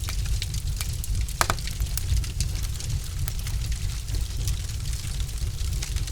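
Wood fire crackling in a fireplace: many sharp irregular pops and snaps from the burning logs over a steady low rumble of the flames.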